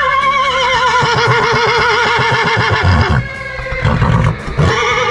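A horse whinnying: one long, quavering neigh lasting about three seconds, then a second, shorter whinny near the end. The mare is fresh and restless, and has been unusually vocal.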